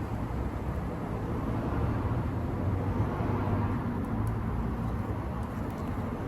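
Steady low rumble of vehicle noise, with a few faint light ticks about four and five seconds in.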